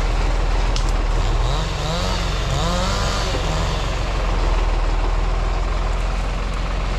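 Diesel engine of a New Holland TT55 tractor running steadily with a deep, even hum.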